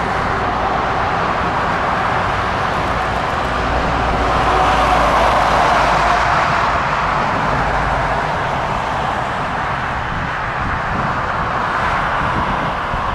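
Jet airliner engines on take-off: a loud, steady rushing noise over a low rumble that swells to a peak about five seconds in and then slowly fades.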